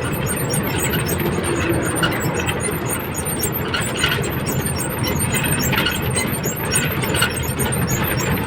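Truck engine running with road noise inside the cab, a steady low drone, with short sharper squeaks now and then.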